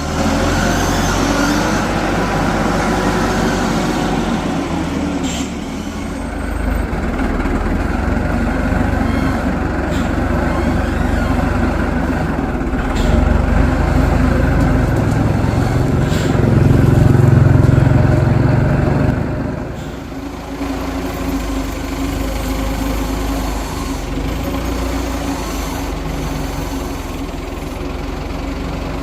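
Heavy construction machine's diesel engine running steadily, pulling harder and louder for several seconds about halfway through, then easing off, with a few sharp metallic knocks along the way.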